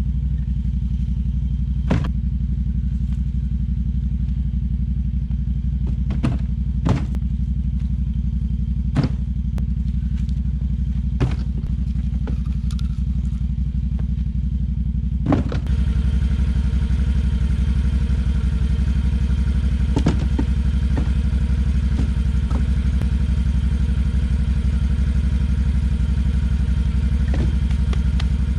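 ATV engine running steadily at low speed, with scattered knocks and clatter as it goes over rough ground. About halfway through it gets louder, with more hiss.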